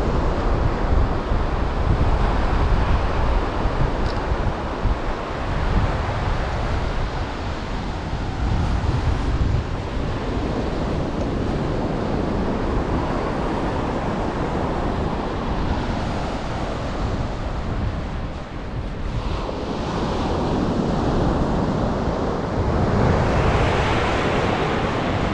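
Ocean surf breaking and washing on a sandy beach, swelling louder as waves come in near the end, with wind buffeting the microphone as a low rumble.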